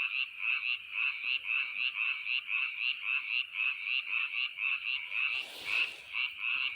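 Frogs calling in a steady, rapid train of croaks, about three a second, pitched fairly high. A brief hiss comes about five and a half seconds in.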